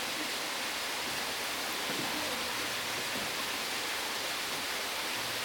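A steady, even hiss with no distinct events, like rushing water or rain.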